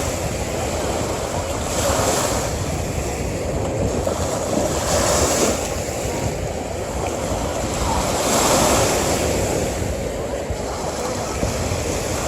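Ocean waves washing onto a beach in steady surf, swelling about every three seconds.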